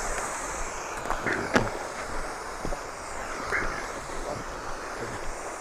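Wind buffeting the microphone, a steady rushing rumble, with a few short clicks or knocks, the clearest about a second and a half in.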